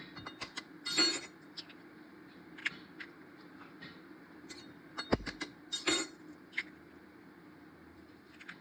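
Kitchen utensils clinking and knocking against cookware in scattered taps, loudest about a second in and again around five to six seconds in, over a steady low hum.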